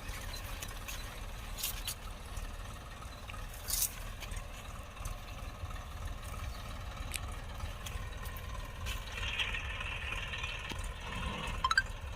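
Tractor engine running steadily as a low rumble, with occasional rattles and clicks.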